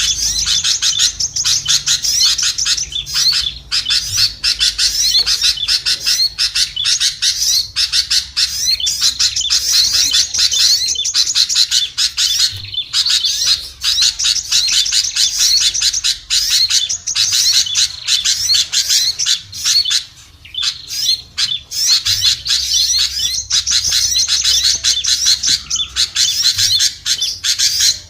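A dense, continuous chatter of many small songbirds: rapid overlapping chirps and squawky calls. This is a bird-lure recording (suara pikat) meant to draw small birds down.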